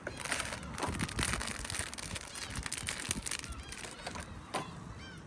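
Strong wind gusting and rumbling on the microphone, with rain crackling, in a seaside gale. A few faint high chirps sound in the second half.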